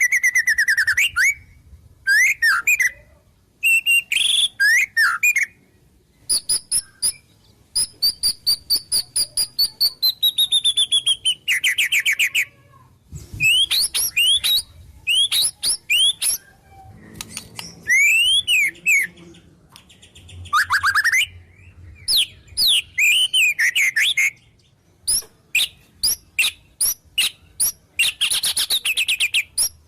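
White-rumped shama singing a long, varied song: loud whistles sliding down in pitch, quick looping phrases, and rapid runs of sharp repeated notes, laced with the mimicked calls of other wild birds.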